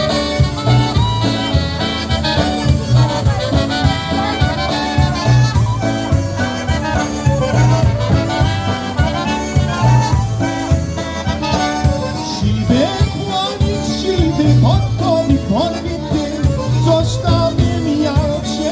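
Live polka band playing a polka: accordion and brass melody over a steady, evenly repeating bass beat.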